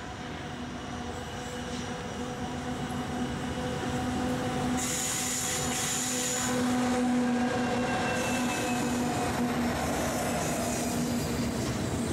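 Diesel-electric freight locomotives passing close by, the engine drone growing louder as they approach. About five seconds in there is a high wheel squeal, then the freight wagons roll past.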